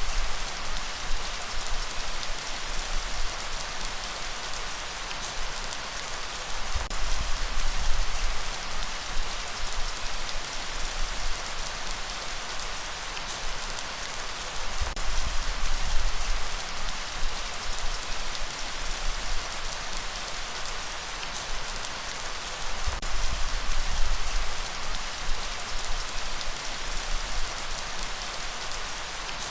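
Steady rain falling, an even hiss of many drops, with a low rumble that swells every seven or eight seconds.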